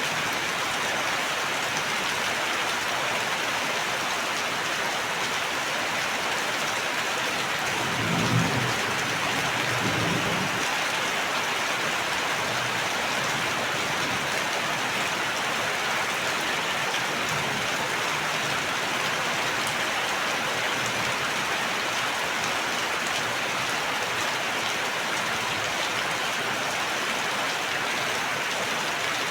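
Steady heavy rain falling, an even hiss throughout, with a brief low rumble about eight seconds in.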